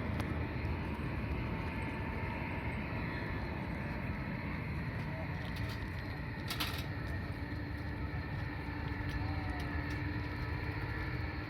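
Jet airliner engines rumbling steadily, with a faint steady whine above the low noise. There is one brief tick about two thirds of the way through.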